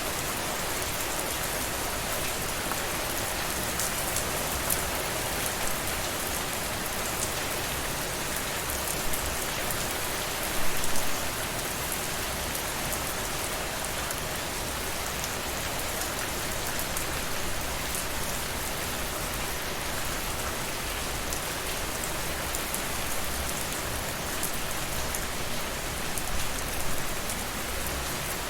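Steady rainfall: an even hiss of rain with scattered louder drop taps, swelling briefly about ten seconds in and again near the end.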